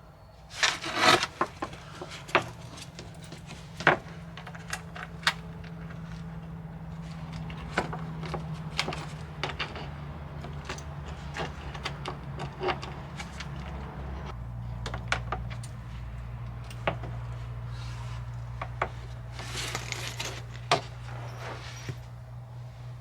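Hand tools clinking and knocking against metal while the under tray's bolts are worked, in scattered irregular clicks over a steady low hum.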